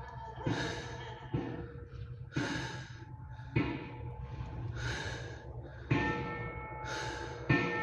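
Bell-like strikes about once a second, each with a short breathy hiss, over steady ringing tones, as in ritual-style background music.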